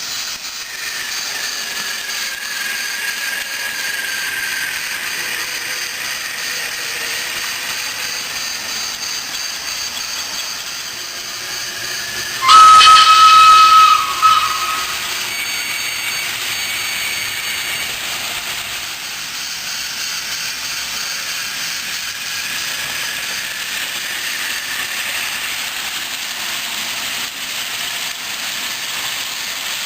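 Steam locomotive sound on an HO model railway: a steady hiss of steam, broken about twelve seconds in by a loud whistle blast of about a second and a half, with a short second toot right after.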